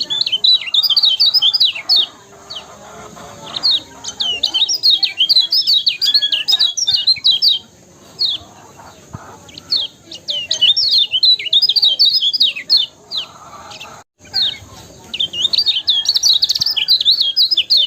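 Kecial kuning white-eye singing in quick, high-pitched chattering runs of rapid sweeping chirps, four phrases a few seconds long with short pauses between them.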